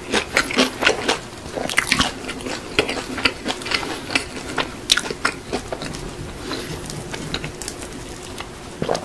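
Close-miked chewing of crispy powder-seasoned fried chicken: irregular crunches of the coating, thickest in the first few seconds and thinning out later.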